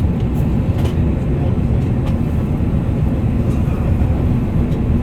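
Steady low rumble of engine and airflow noise inside the cabin of an Airbus A380 under power, with a few faint clicks over it.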